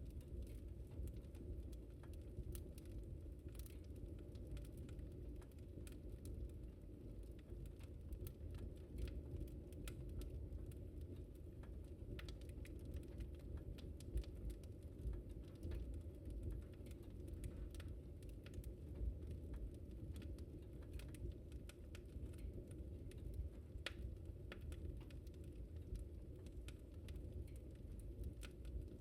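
Wood fire crackling in a fireplace: a steady low rumble of flame with irregular sharp pops and crackles, a few of them louder than the rest.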